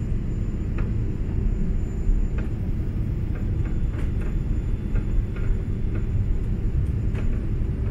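Steady low cabin rumble of a Boeing 777-200 airliner on its approach: engine and airflow noise heard inside the cabin, with a few faint ticks.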